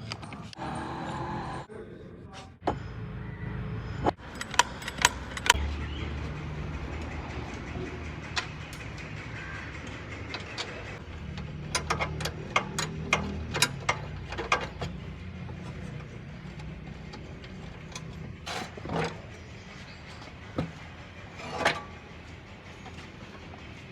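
A low, steady running drone with many short, sharp clicks and knocks, some coming in quick clusters, like tools or parts striking metal.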